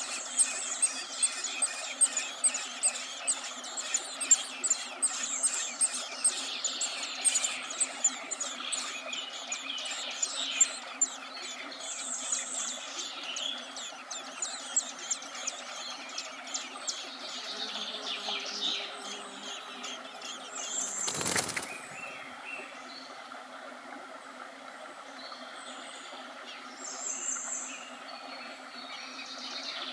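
Birds calling outdoors: a run of quick, sharp, high chirps and ticks, thick at first and thinning out, over a steady natural background. A brief loud rush of noise about two-thirds of the way through.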